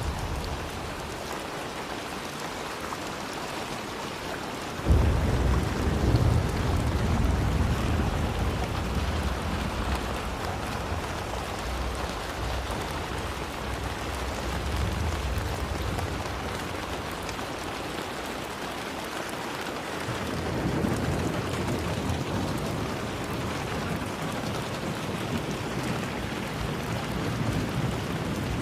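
Steady rain falling, with thunder: a sudden clap about five seconds in that rumbles on for several seconds, then a second, softer rumble later on.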